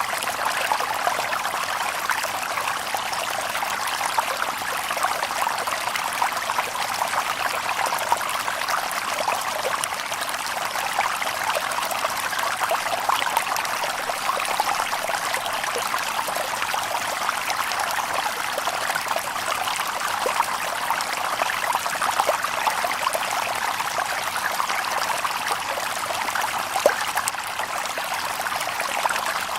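Shallow river water babbling and trickling over stones: a steady, close splashing with many small drips and gurgles, without birdsong.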